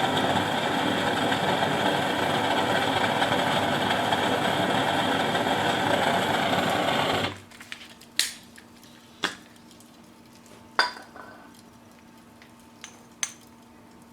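A handheld gas burner running steadily, shut off suddenly about seven seconds in. After it stops come a few sharp, isolated crackles from the burning fire.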